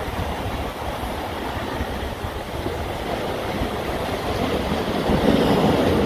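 Wind buffeting the microphone, a rough steady rumble that grows louder about five seconds in.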